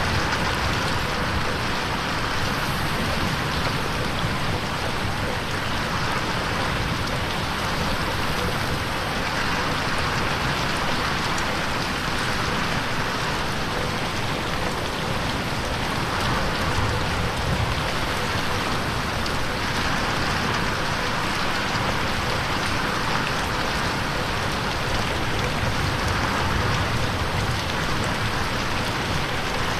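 Steady rain falling on a window pane, an even hiss of drops with slow, gentle swells in intensity.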